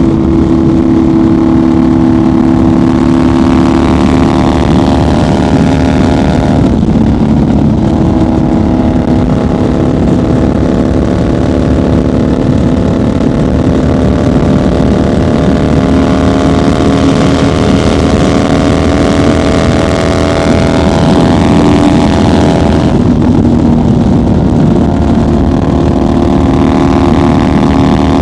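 1990 Harley-Davidson FXR's Evolution V-twin running at highway cruising speed, a loud, steady exhaust note. The pitch drops briefly about a quarter of the way in and again about four-fifths in, then climbs gradually each time as the bike pulls back up to speed.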